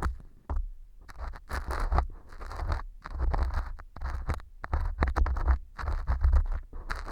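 Earpick scraping and crunching pieces of dry wheat gluten (fu) glued on as mock earwax, in a run of short scratchy strokes with brief pauses between them. A low rumble of handling runs underneath.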